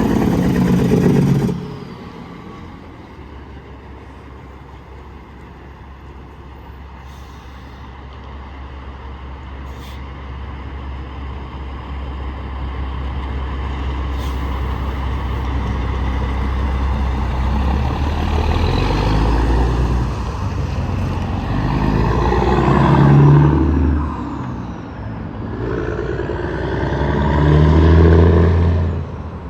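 Highway traffic of tractor-trailers passing close by. A loud pass-by cuts off early, then a truck's engine and tyre drone builds slowly for about fifteen seconds and peaks as it passes about twenty-three seconds in. Another passes near the end.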